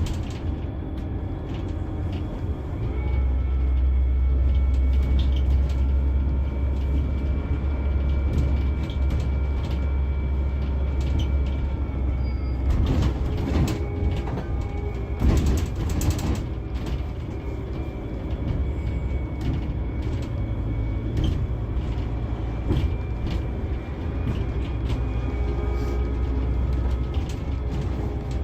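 Scania K360 coach running and driving along. Its low engine drone strengthens about three seconds in, and a couple of brief rushes of noise come about halfway through.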